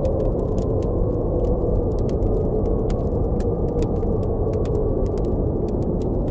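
Steady, low-pitched blizzard wind with a campfire crackling over it in frequent, irregular sharp pops and snaps.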